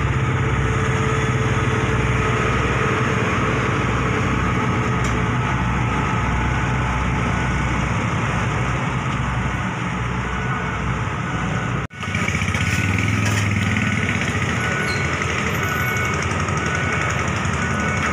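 Diesel railcar train running past with a steady engine rumble. About twelve seconds in the sound cuts off abruptly, and a similar steady mechanical drone picks up again.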